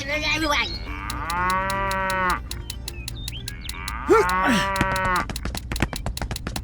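A cow mooing twice, two long drawn-out moos, over a rapid, even clicking.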